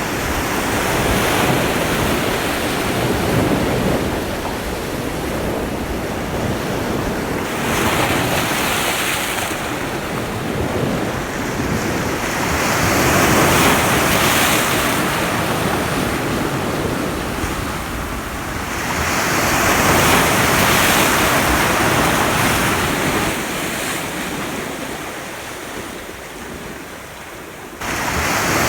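Ocean surf: waves breaking and washing up the shore, swelling and fading every few seconds. After a quieter lull the surf jumps suddenly louder near the end.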